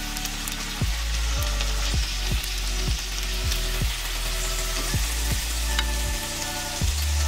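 Chicken breast sizzling as it fries in hot oil and ghee in a pan, over background music with a regular low beat.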